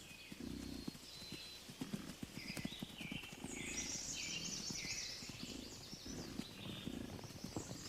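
Hooves of a running bison herd, many irregular hoofbeats, with short low grunts and high bird calls over them.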